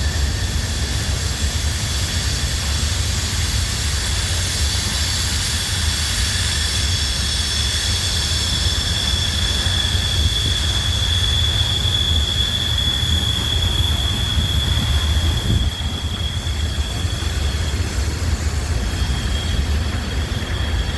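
Freight train rolling past close by: a steady heavy rumble of the cars on the rails, with a sustained high-pitched wheel squeal that fades about three-quarters of the way through and comes back near the end.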